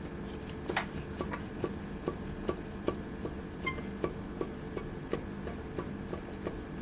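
Renault Duster front brake caliper rocked back and forth by hand, knocking against the steering knuckle in a regular series of short metallic clicks, about two or three a second. The knock is play in the caliper's guide pin, which the owner puts down most likely to a worn rubber guide-pin bushing.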